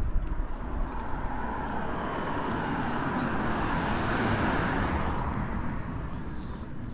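A road vehicle driving past, its tyre and engine noise swelling to its loudest about four seconds in and then fading away.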